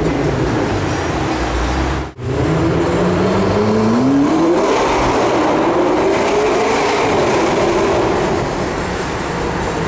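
McLaren 650S Spider's twin-turbo V8, heard onboard, under hard acceleration. After a brief break about two seconds in, the engine note climbs steeply for about two and a half seconds. It then holds high, rising and falling a little.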